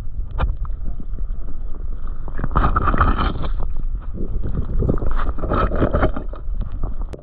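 Water sloshing and splashing around a GoPro dipped in a river, with irregular knocks and a low rumble, loudest about two and a half seconds in and again about five seconds in.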